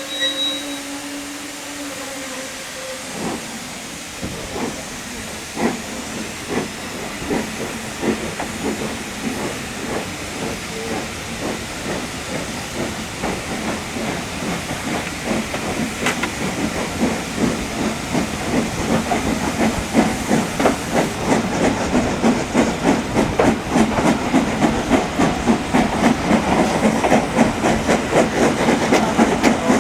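Steam locomotive giving a short whistle, then setting off: steam hissing and exhaust chuffs that come quicker and louder as it gathers speed.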